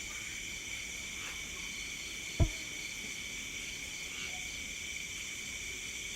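Night insect chorus, mainly crickets, trilling steadily in several high-pitched layers. A single short low thump about two and a half seconds in stands out above it.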